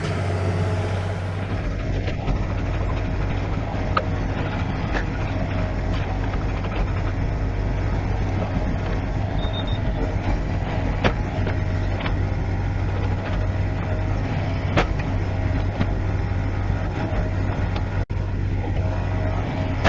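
Engine of heavy site machinery running steadily with a constant low rumble, with a few scattered clicks and knocks over it.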